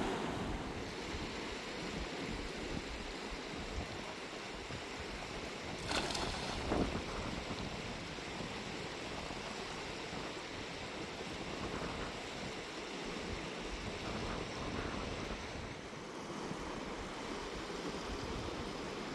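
Fast-flowing river water rushing steadily, with a couple of brief knocks about six and seven seconds in.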